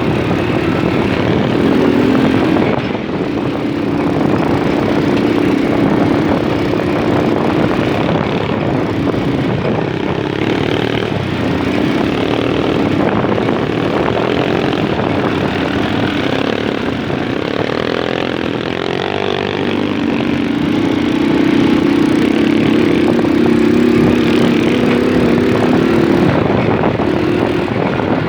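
Small moped engine running continuously while being ridden, its pitch stepping up and down a little with the throttle and getting somewhat louder about two-thirds of the way through.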